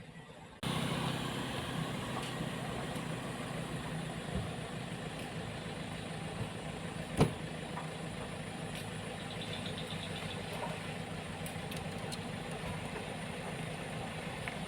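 A motor vehicle engine idling steadily, cutting in suddenly about half a second in, with one sharp knock about seven seconds in.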